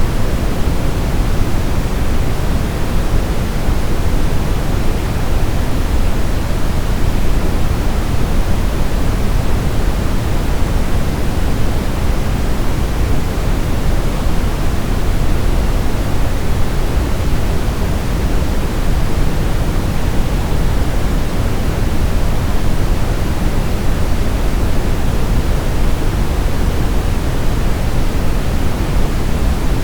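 Steady brown noise: an even, unchanging rush, deep and heavy in the bass, with the highs falling away.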